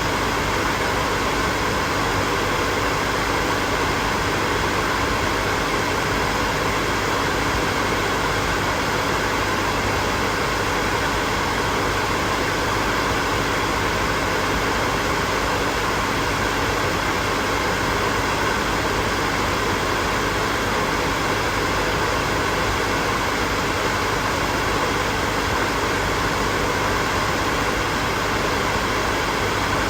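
Hair dryer running steadily: an even rush of blown air with a faint steady hum underneath.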